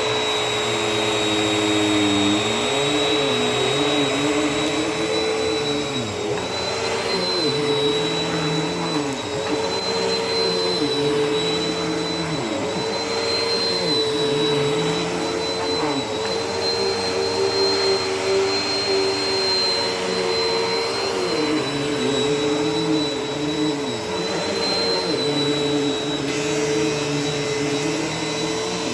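Vacuum cleaner running steadily over carpet, a high motor whine held constant while a lower hum dips and recovers every second or two as the machine is pushed back and forth.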